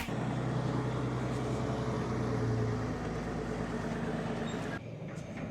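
A vehicle engine running steadily at low speed, with a sudden drop to a quieter hum near the end.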